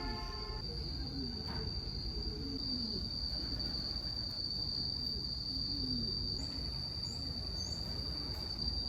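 Steady high-pitched insect trill, like a cricket's, over a low rumble, with a few faint short chirps near the end.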